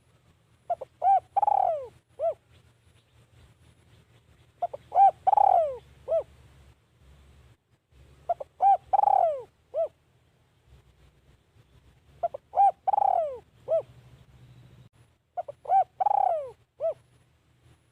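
Spotted dove cooing, five similar phrases about every four seconds. Each phrase is a couple of short coos, a longer coo that falls in pitch, and one short closing note.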